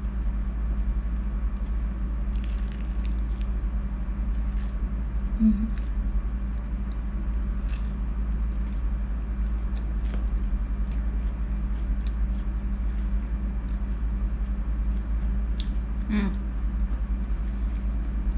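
Chewing and crunching on deep-fried battered squid, with scattered crisp bite clicks, over a steady low hum.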